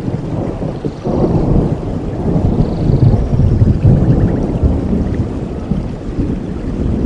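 Steady rainforest rain with a low rumble of thunder that swells about a second in and slowly eases off.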